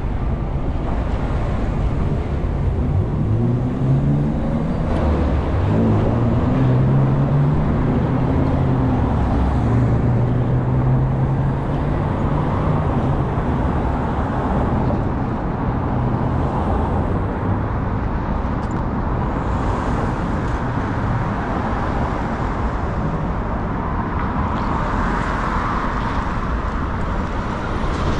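City bus on the move heard from on board, with road and traffic noise throughout. For the first several seconds its engine climbs in pitch as it pulls away, then it settles into a steady cruising rumble.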